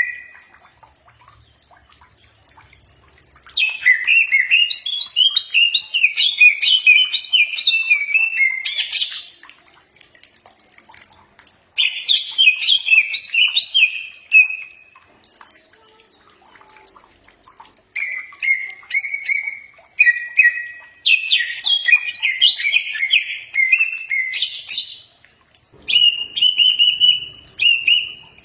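Cucak ijo (green leafbird) singing in several phrases of fast, varied whistled notes, with short pauses between the phrases.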